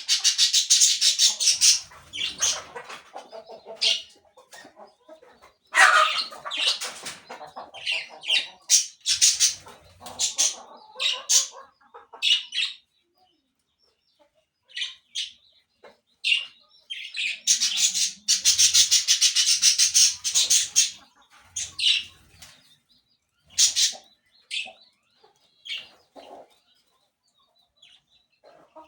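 Birds calling in loud bursts of fast, high-pitched chattering, with shorter single calls in between and a lull of a few seconds about halfway through.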